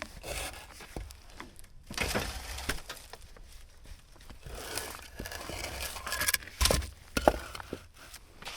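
Hands-on work around the machine: irregular scraping, rustling and clinking, with a few sharp clanks about six and a half to seven and a half seconds in.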